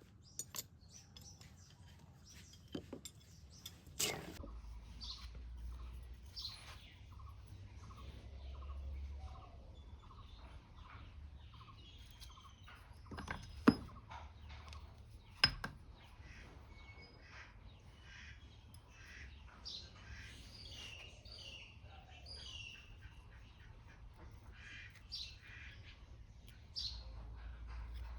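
Birds chirping with many short calls. A few sharp knocks break in: light clicks near the start, and two louder ones about a second and a half apart in the middle.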